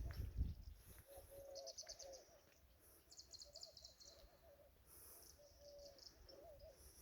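Faint outdoor birdsong: repeated quick high chirping trills and wavering whistled calls, with a low rumble in the first half second.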